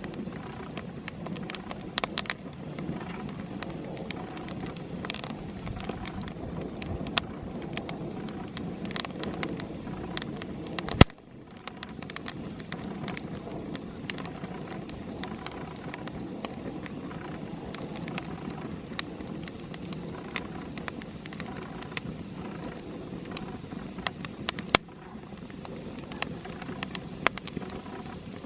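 Small campfire crackling: scattered sharp pops over a steady low rush, with one loud crack about eleven seconds in.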